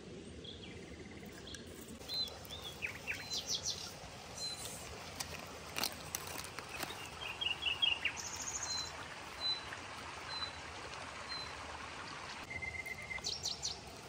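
Several small birds chirping and trilling in short phrases over a steady background hiss, with a few sharp clicks around the middle.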